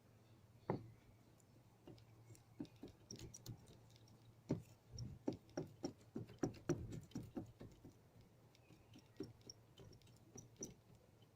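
A string of light, irregular taps and clicks: one sharp tap about a second in, a dense cluster in the middle, then a few scattered ones.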